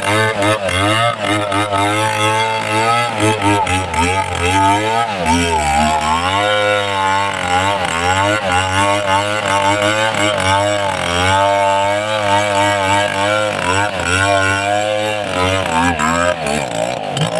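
Two-stroke chainsaw running at high revs while cutting a tree trunk, its engine pitch repeatedly dipping and rising under the load of the cut.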